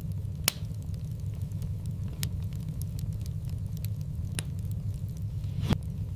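Wood fire in a fireplace burning with a steady low rumble and scattered crackles, with two sharper pops, one about half a second in and one near the end.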